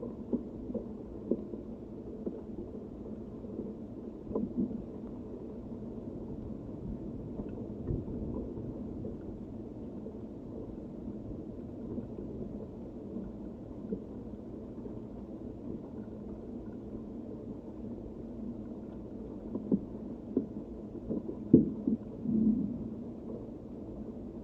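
Muffled, steady rushing of wind and rain, with a few short sharp knocks, clustered and loudest about 20 to 22 seconds in.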